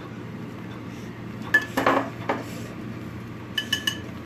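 A metal utensil clinking and scraping against a pan while fried rice is stirred: a short run of scraping and clinks about a second and a half in, then three quick clinks near the end.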